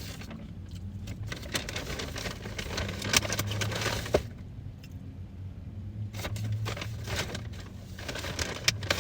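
Chewing and handling a fast-food burger and its paper wrapper: irregular small clicks and crinkles over a steady low hum.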